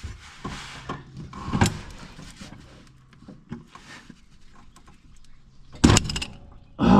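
Scattered clicks and clanks of hand tools working on a riding mower, with two loud knocks near the end.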